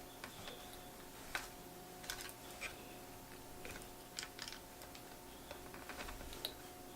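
Faint, scattered clicks and light taps of small parts and a screwdriver being handled inside an open MacBook Pro laptop, over a steady faint hum.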